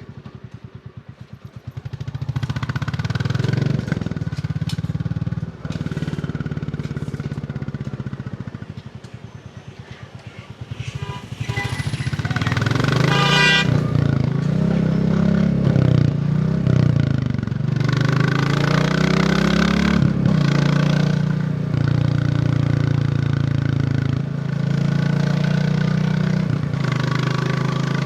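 Royal Enfield Bullet 350's single-cylinder engine running at low revs off the throttle, then accelerating about ten seconds in, its pitch rising and dropping back through several gear changes before it settles into a steady cruise.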